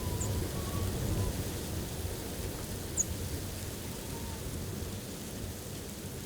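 Blizzard wind gusting against the blind and the microphone, a steady low rumble that eases slightly toward the end, with a faint wavering whistle and a brief high tick about three seconds in.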